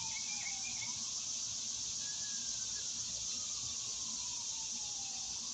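Steady high-pitched chorus of summer insects, likely crickets or cicadas. Over it a faint squeal-like tone slowly falls and rises, peaking about two seconds in and bottoming out near the end.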